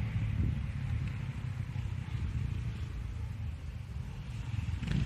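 KTM LC4 motorcycle's single-cylinder four-stroke engine running with a steady, low-pitched rumble.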